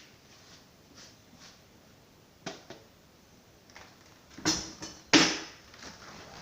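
Handling noise as things are moved and set down on a table: a small knock, then two louder thumps close together a couple of seconds later, in a small room.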